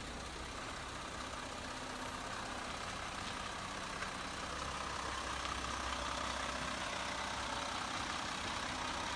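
Land Rover Series III engine idling steadily with a low hum.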